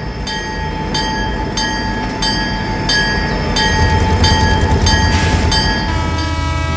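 Train sound effect: a train running, with a rumble that grows louder about halfway through and a short high tone repeating evenly about every two-thirds of a second.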